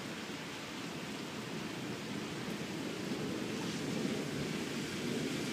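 Heavy rain falling steadily, heard as an even rushing noise.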